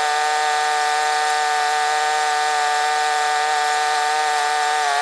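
A motor or engine running steadily at one speed, a loud even buzzing hum with no change in pitch.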